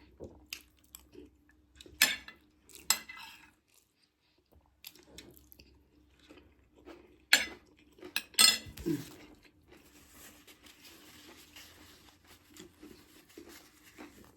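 Cutlery clinking against a dish, with several sharp clinks, and quieter chewing between them.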